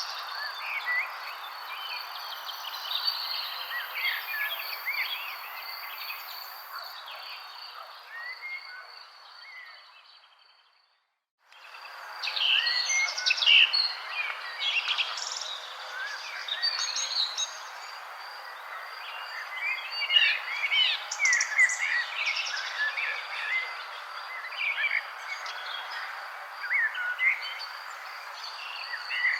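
Many small birds chirping and twittering over a steady high insect-like tone and a soft natural hiss. The sound fades out to silence about ten seconds in, then fades back in half a second later, as at a splice between recordings.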